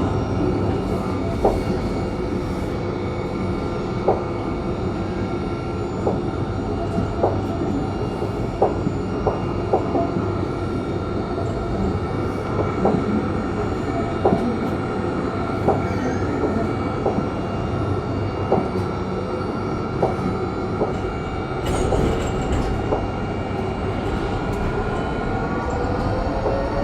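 Nottingham tram running along the track: a steady rumble with a sharp click about every second or so as the wheels cross rail joints. A whine rising in pitch starts near the end.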